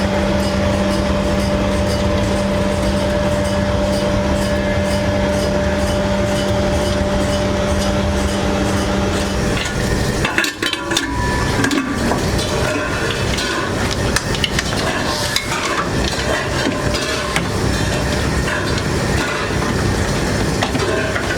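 Loud factory workshop noise: a machine's steady hum for roughly the first ten seconds, then an abrupt change to irregular knocks and clatter.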